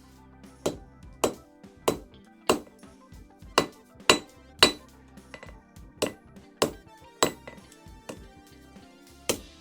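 Hand hammer striking a small steel heart pendant on an anvil, about eleven ringing blows at a bit under two a second with brief pauses, as the forged piece is refined. Background music plays underneath.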